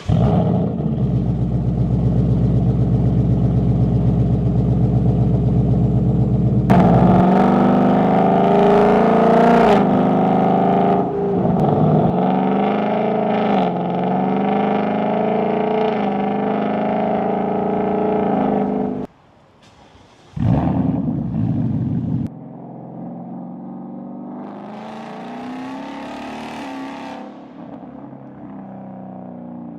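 Car exhaust running: a loud steady deep note for the first seven seconds, then the engine revved up and down several times. After a brief cut and a short burst, it goes on more quietly at a steady note, with one rise in revs near the end.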